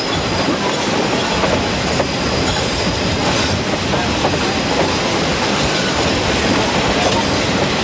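Tourist steam train's open-sided passenger cars running along the track, heard from on board: a steady rumble and clatter of wheels on rail.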